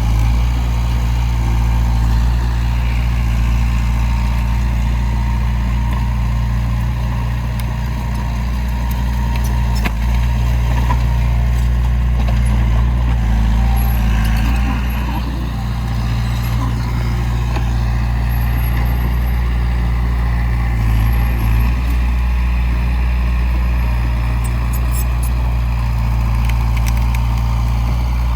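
Heavy diesel earthmoving machinery running steadily, with a deep, even engine drone that holds the same pitch throughout.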